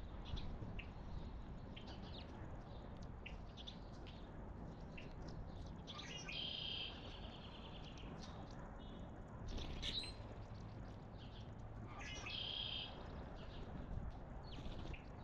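Several small songbirds chirping with many short calls, and two longer trilled songs of about a second each, one near the middle and one about three-quarters of the way through, over a steady low outdoor rumble.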